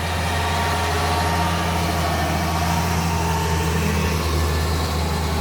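A steady, low mechanical hum with a constant pitch, like an engine or motor idling.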